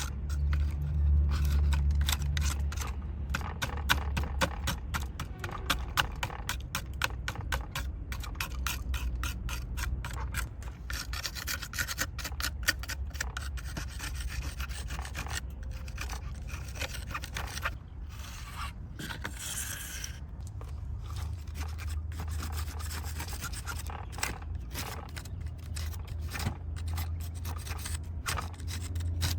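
Rapid, continuous rubbing and scraping strokes on a small die-cast model truck, as caked mud is worked off it. A low steady hum sits underneath at the start and again in the last third.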